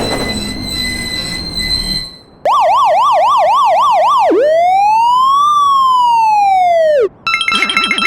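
Electronic police siren: a fast yelp of quick up-and-down sweeps, then one long wail that rises and falls. Before it, a ringing tone lasts about two seconds, and near the end a rapid repeating electronic tone pattern starts.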